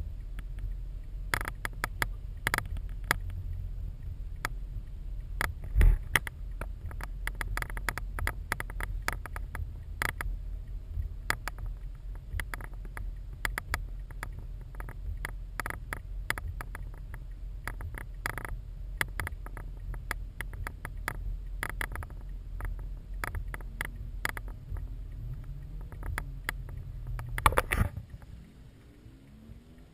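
Raindrops tapping irregularly on a GoPro camera housing over a low steady rumble. Near the end a rising tone builds to a short loud burst, and then the sound falls away.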